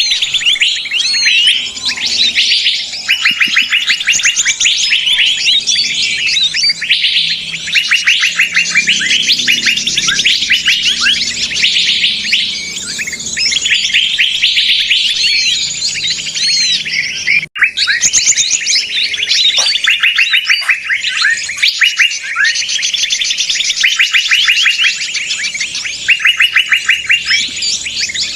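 Bird-lure recording of many small birds calling excitedly at once: dense, rapid trills and chirps overlapping without pause, with one brief break about two-thirds of the way through.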